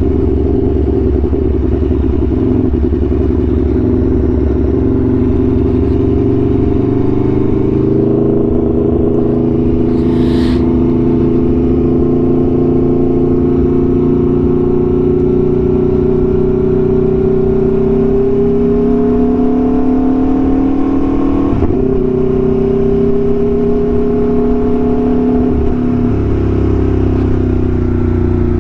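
Aprilia Tuono V4 1100's V4 engine breathing through an SC-Project exhaust, heard on board while riding. Its note climbs slowly for most of the time, drops sharply with an upshift about two-thirds of the way through, climbs again and then eases off near the end. There is a brief hiss about ten seconds in.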